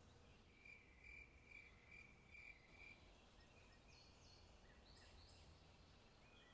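Faint forest ambience with small birds calling: a run of about five even, same-pitched notes in the first few seconds, then a few short high chirps later on.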